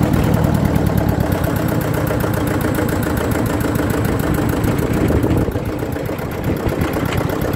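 Eicher tractor's air-cooled diesel engine running steadily with its exhaust note. It gets a little quieter about five and a half seconds in, as if the revs drop.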